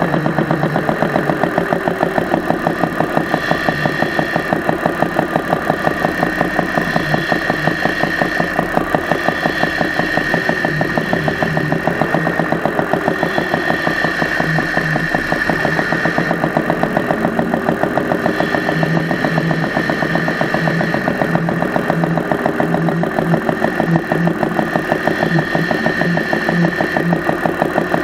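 Engine running at a steady, near-idle speed with a fast, even mechanical clatter from the top end. The owner suspected the lifters and rockers, then the mechanical fuel pump, and finally thinks it is a tired or weak valve spring.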